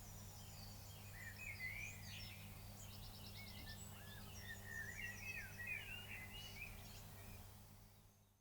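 Several wild songbirds singing, a mix of short whistled phrases, chirps and quick trills, faint over a steady low hum; it fades out near the end.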